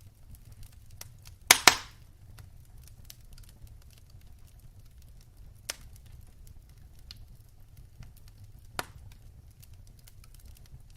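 Wood fire crackling: faint ticks throughout over a low steady rumble, with a few sharp pops. The loudest is a double pop about one and a half seconds in, with single pops near the middle and near the end.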